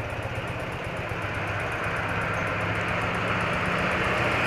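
BMW R80RT motorcycle's air-cooled flat-twin engine running at a steady pitch, heard from the rider's helmet camera, with wind and road noise growing steadily louder.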